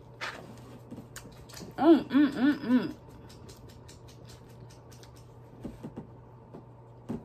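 Close chewing of crunchy fried batter, with a scatter of small crunches and mouth clicks. About two seconds in, the loudest sound is a quick run of four short pitched sounds, each rising and falling in pitch.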